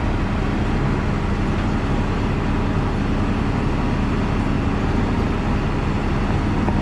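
Heavy diesel engine of logging equipment running at a steady speed, an even drone that holds without change.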